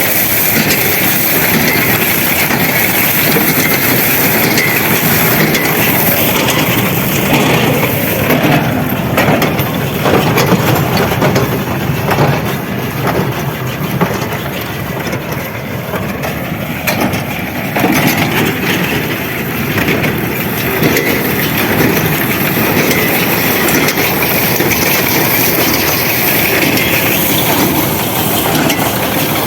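Farm tractor engine running steadily, with loud mechanical clatter and repeated knocks from the machinery it drives, densest in the middle stretch.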